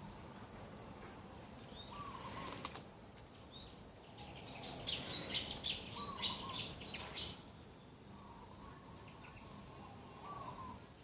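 Birds calling: a quick run of high chirps and whistles about four to seven seconds in, the loudest part, with a few fainter, lower calls repeated at intervals before and after, over steady background noise.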